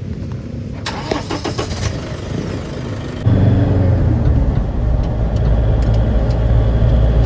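ATV engines running, with a brief rattle about a second in; about three seconds in a nearby engine becomes much louder and runs on steadily at a low, even note.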